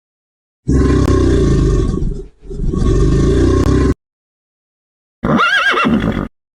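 Animal calls: two long, loud, rough low calls back to back, then after a pause a shorter higher call that rises and falls in pitch.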